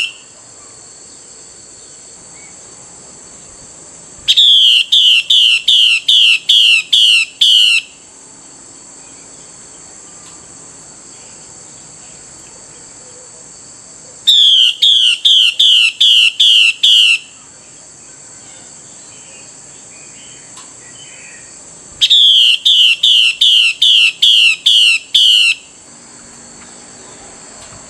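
Female Chinese hwamei calling to a male: three loud bursts of rapid, evenly repeated whistled notes, about eight or nine notes in each burst of roughly three seconds, several seconds apart. A steady high-pitched insect drone runs underneath.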